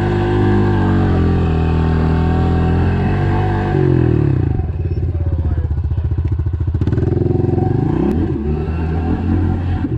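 Pit bike engine revving hard, its pitch climbing and dropping through the gears. From about four seconds in it eases off the throttle with a fast, chugging pulse, then picks up again near the end.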